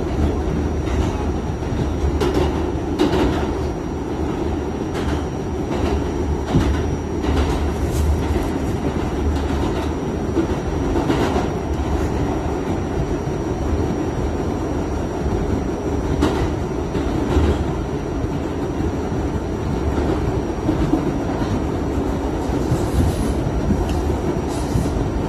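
Kawasaki R68A subway car running on the track, heard from on board: a steady rumble, with sharp clicks from the wheels passing over rail joints every second or two.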